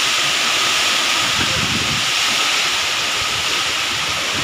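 Heavy rain pouring steadily in a nor'wester (Kalbaishakhi) storm, a dense even hiss, with gusts of wind rumbling irregularly on the microphone.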